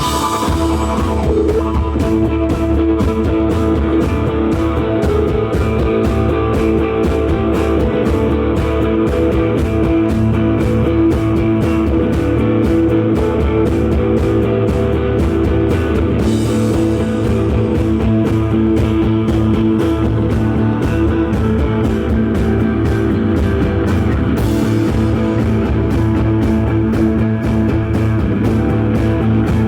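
Live psychedelic rock band playing loudly: electric guitars holding dense, droning chords over a steady drum beat. The full band comes in right at the start, after a stretch of drums alone.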